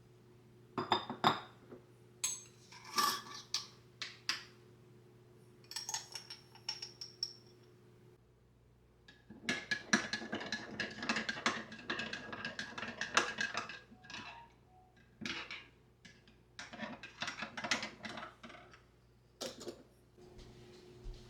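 Dishes and cutlery being handled: a few sharp clinks, some ringing on briefly, then a long stretch of busy clattering about halfway through, and scattered knocks near the end.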